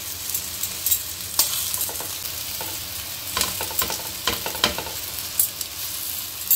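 Stuffed bitter gourds sizzling in hot oil in a steel pan, with several sharp clicks and scrapes of a metal spatula against the pan as the gourds are turned so their undone sides cook.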